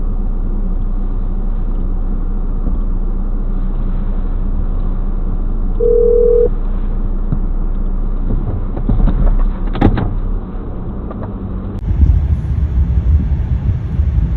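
Steady low hum of a car's engine and road noise as picked up by a dashcam, with a short single-tone beep about six seconds in and a few clicks and knocks around ten seconds. Near the end the sound switches to a rougher, gustier vehicle rumble with wind on the microphone.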